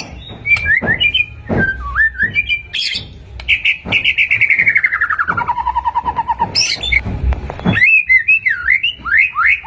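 White-rumped shama (murai batu) singing: varied whistled phrases of rising and falling notes. A few seconds in, a long rapid trill slides down in pitch and then holds steady on a lower note before the whistled phrases return.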